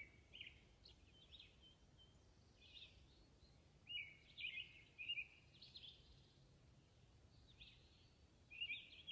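Small songbirds chirping, short high-pitched phrases scattered through, loudest about four seconds in and again near the end, over faint background hiss.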